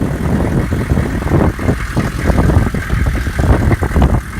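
Chevrolet 6.5 L turbo diesel V8 running at idle, with uneven low thumps in the sound.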